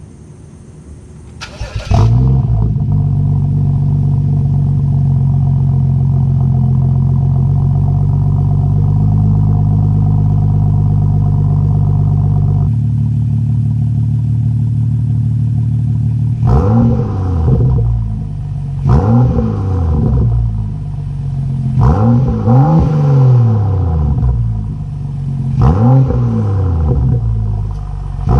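2015 BMW M235i's N55 turbocharged straight-six exhaust through a Fabspeed muffler bypass with the stock cats and mid-pipe. The engine starts about two seconds in and runs at a steady idle that drops slightly a few seconds later. From about halfway it is blipped in about five short free revs, each rising and falling.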